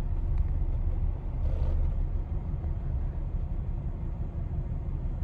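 1999 Lexus RX 300's V6 idling with a low, uneven rumble: a rough idle from a misfire on cylinder 6, which the owner blames on a failing ignition coil.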